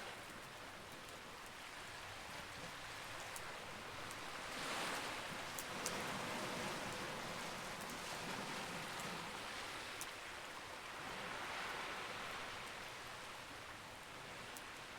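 Campfire burning, with a few sharp crackling pops over a steady rushing wash that swells and fades twice.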